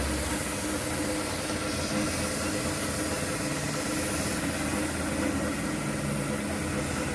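Dump truck's diesel engine idling steadily, with a constant hiss over it.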